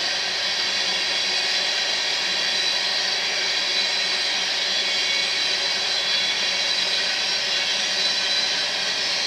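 Tank cars of an oil train rolling past: a steady rushing of steel wheels on rail, even in level throughout.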